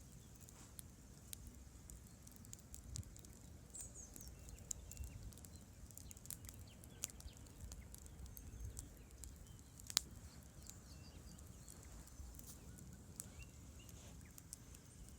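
Campfire crackling: irregular small snaps and pops of burning wood, with one sharper pop about ten seconds in, over a faint steady low background.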